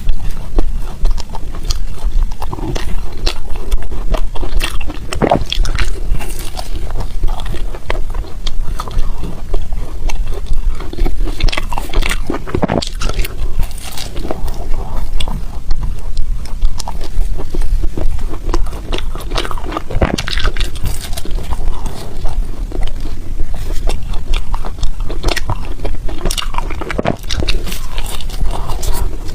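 Ice being bitten and chewed close to the microphone: an irregular, continuous run of crisp crunches and cracks.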